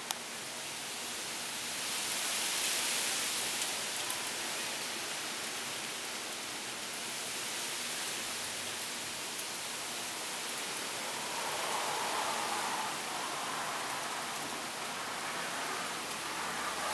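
Heavy rain from a cold-front downpour, a steady hiss that swells about two to four seconds in, with a few sharp ticks.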